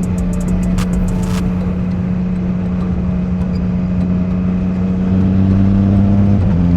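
Motorcycle engine running steadily under way, heard from the rider's position; about five seconds in it gets louder, and near the end its pitch steps down.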